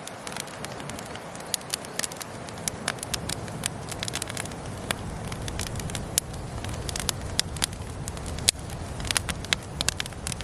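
Wood campfire crackling: irregular sharp pops and snaps from the burning wood over a steady low rumble of the fire.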